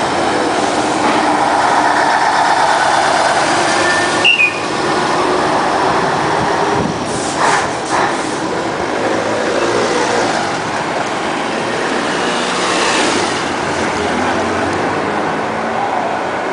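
Classic trucks driving past, their engines running in a steady, noisy din, with a few brief louder sounds about four seconds in and again around seven to eight seconds in.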